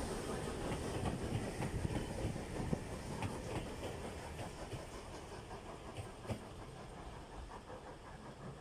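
Wheels of vintage railway passenger coaches rolling and clicking over the rail joints as the tail of a train passes and draws away, the sound fading steadily, with a couple of sharper clicks about six seconds in.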